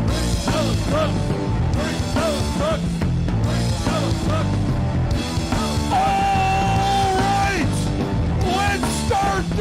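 Punk rock song played by a band, with sung and yelled vocals; one note is held for about a second and a half a little past the middle.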